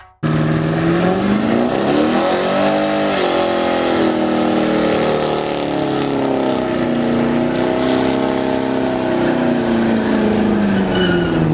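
A truck's engine running hard and revving, its pitch climbing and falling a couple of times and dipping low near the end. It cuts in suddenly just after the start.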